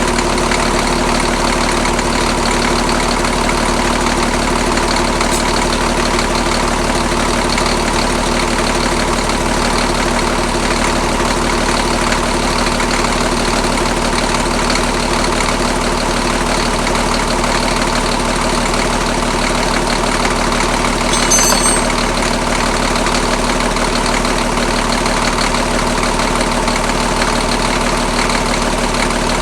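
Diesel engine in a Cat D6B dozer idling steadily on a test run, water pump belts off, to see whether the repaired head now holds water and heats up. A short high metallic clink about two-thirds of the way through.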